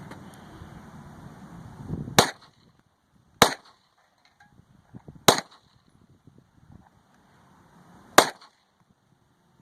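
Four single gunshots from a firearm, unevenly spaced: the first about two seconds in, then roughly one, two and three seconds apart. A low steady noise runs under the first two seconds before the first shot.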